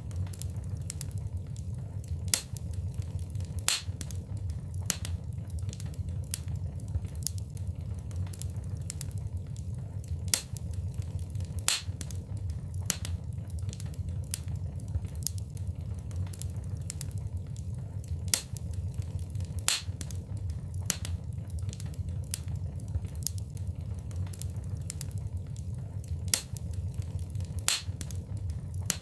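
Wood fire in a fireplace crackling, with sharp irregular pops about once a second over a steady low rumble.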